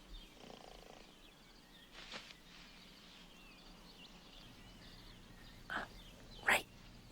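Faint animal chirps over a low steady background hum. Two short sharp calls come near the end, the second the loudest.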